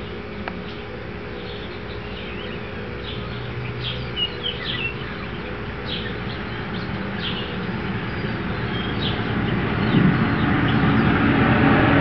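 Outdoor ambience of small birds chirping in short, scattered calls over a steady background, with a low rumble building near the end.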